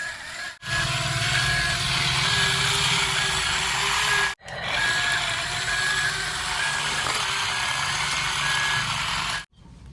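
Truck engine noise with a reversing beeper sounding repeatedly, about one beep every three quarters of a second. It cuts out for a moment about halfway through and stops abruptly near the end.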